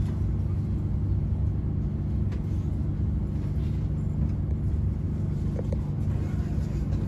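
Steady low rumble and hum inside the passenger cabin of an IRYO Frecciarossa 1000 high-speed train as it rolls slowly out of the station.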